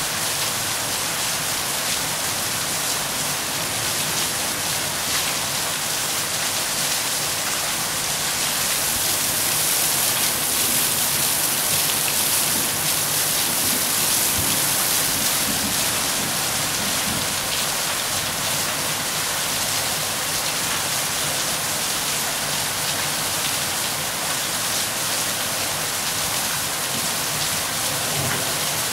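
Steady rain falling, a dense even hiss that swells a little for several seconds midway.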